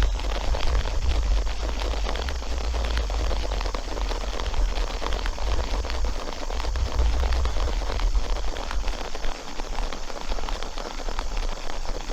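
Mite-wash shaker jar of bees in washing liquid being shaken hard and continuously by hand: liquid sloshing with dense rattling and clicking, over a steady low rumble.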